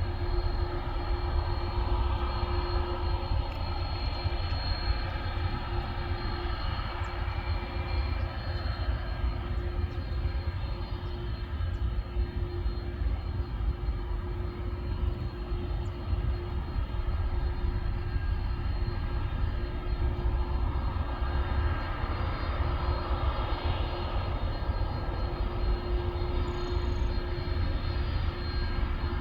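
Airliner engines running, a continuous low rumble with a steady whine over it that swells a little twice.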